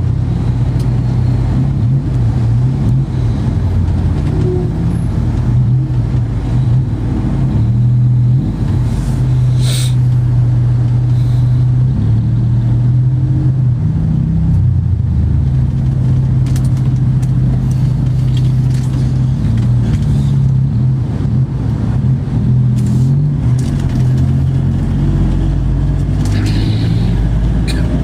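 Steady low drone of a moving road vehicle: engine and road noise.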